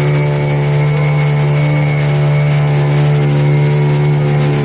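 Glass-bottom tour boat's engine running steadily underway, one constant hum that holds its pitch with no revving.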